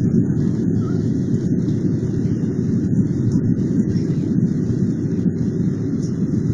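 Airliner cabin noise during takeoff and climb: a steady, loud, deep rumble of the jet engines and airflow, heard from inside the cabin.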